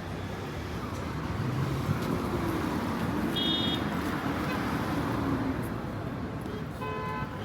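Street traffic noise, a steady rumble of passing vehicles that swells a little in the middle, with a short high beep about three and a half seconds in.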